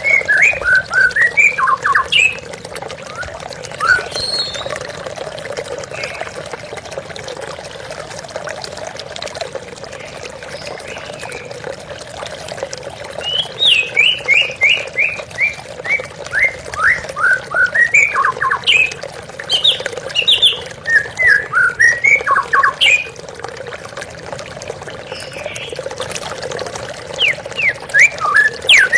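White-rumped shama singing in runs of quick, sliding chirped notes: near the start, through the middle, and again near the end. Steady running water underneath.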